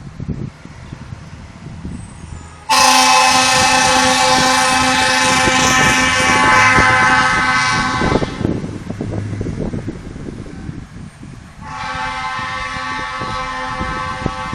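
Fire engine's air horn sounding two long blasts over the rumble of the truck: a loud one of about five seconds starting about three seconds in, and a second, somewhat quieter blast starting near the end.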